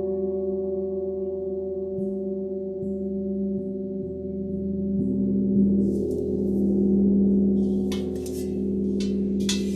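Gong and sound bowls ringing in long sustained tones, several pitches at once. About halfway through a deeper tone swells up and fades, and a few sharp, bright hits sound near the end.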